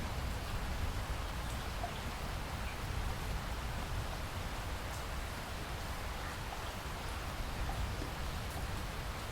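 Steady rain falling: an even hiss with scattered faint drop ticks over a low rumble.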